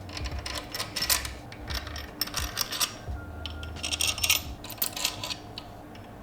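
Metal-on-metal clinking and rattling from hand tools and engine parts, in several short irregular bursts of clicks, as the crankshaft main bearing caps are fitted and bolted down.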